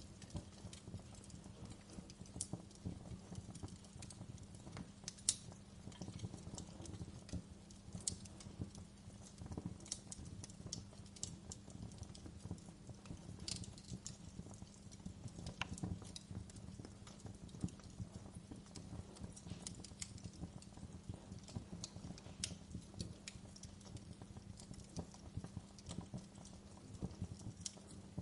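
Wood fire crackling in a fireplace: irregular sharp pops and snaps, scattered through the whole stretch, over a steady low rumble.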